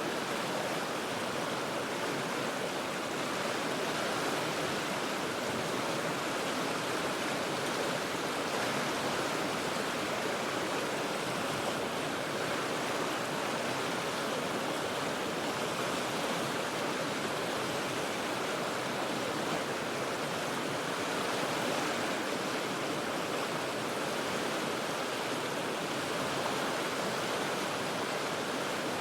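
River water rushing over rocks in a steady, unbroken roar, heard from high above the river.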